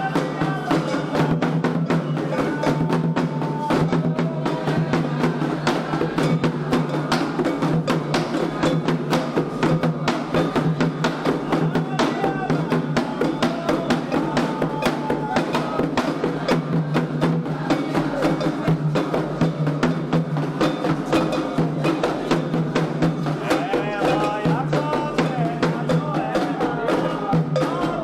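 Candomblé ritual music: atabaque hand drums keeping a fast, steady rhythm under singing voices.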